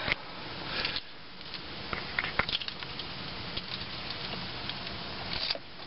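2006 Chevrolet Impala's 3.9-litre V6 cold-starting about a second in, catching right away and running at a steady idle, with scattered clicks.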